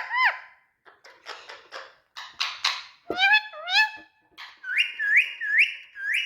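Indian ringneck parrot chattering and whistling: scratchy chatter first, then sliding calls, and near the end a run of four short rising whistles.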